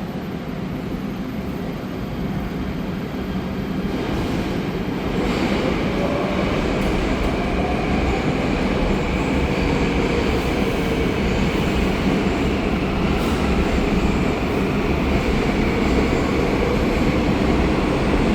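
Seoul Metro Line 3 electric train running and growing louder, with a traction-motor whine that rises in pitch as the train picks up speed, over a low rumble of the wheels on the track.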